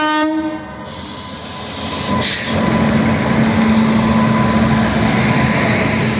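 An Indian Railways WAG-9 electric locomotive's horn ends within the first second. Then the passenger train runs by with a steady rumble and hum that grows louder about two seconds in.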